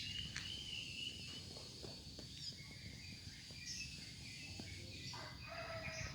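Rooster crowing: one crow trails off about a second in and another begins near the end, over a faint low rumble.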